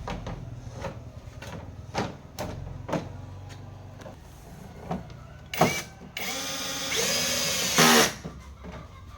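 Scattered clicks and knocks of parts being handled, then a small handheld power tool runs for about two seconds, loudest just before it stops.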